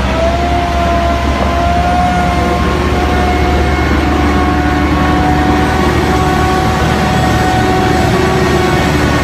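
Heavy truck engine running steadily under load: a deep rumble with a held high whine over it.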